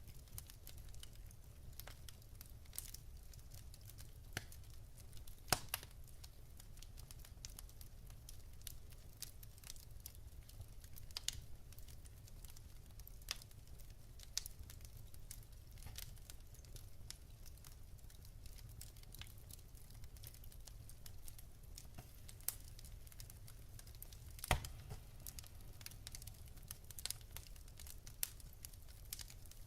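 Wood logs burning in a fireplace, crackling softly with scattered sharp pops, a couple of them louder.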